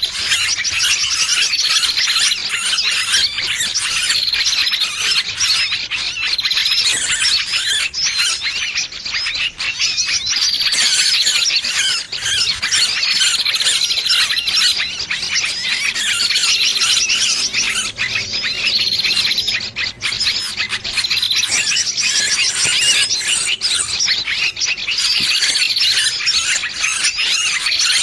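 Bird-trapping lure recording of a small bird's distress calls, the cries of a pinched or trapped bird: dense, high-pitched, rapid chirping cries repeating without a break.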